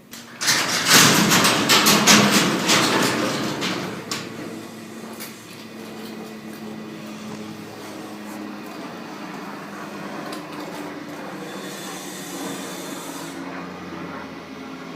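Garage door moving, with a loud clattering rattle for about three and a half seconds, then a quieter steady hum.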